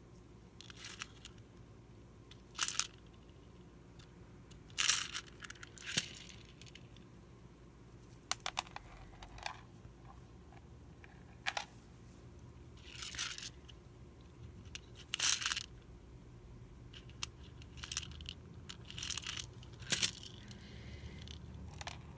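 Beads clicking and thread and paper rustling as beads are strung and sewn onto a book spine by hand: intermittent short clicks and brief swishes, spaced a second or more apart.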